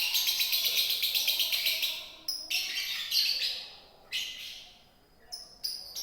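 Lovebird singing: a fast run of rapidly repeated high, shrill notes for about two seconds, then short broken bursts of chatter with gaps between them.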